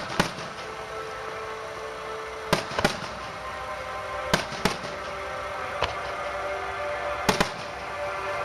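Fireworks shells bursting overhead in sharp bangs, mostly in pairs a fraction of a second apart, every second and a half to three seconds, with music playing underneath.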